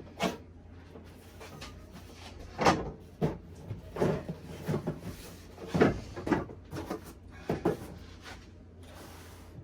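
Irregular knocks, thumps and clunks from a benchtop planer and its packing being handled and moved about, about ten short bangs spread over several seconds, over a low, steady hum.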